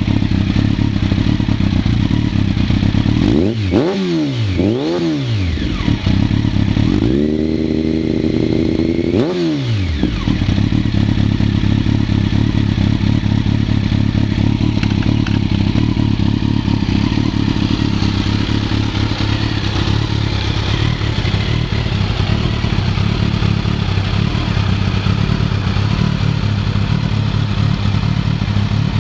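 Kawasaki ZX-12R inline-four engine through a first-generation Muzzy titanium slip-on exhaust, idling. The throttle is blipped twice in quick succession about three and a half seconds in, then held at higher revs for a couple of seconds around the seven-second mark before it drops back to a steady idle.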